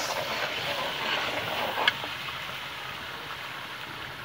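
Tomato and onion masala sizzling and bubbling in a karahi as a metal spoon stirs it, with one sharp clink about two seconds in; the sizzle then goes on a little quieter.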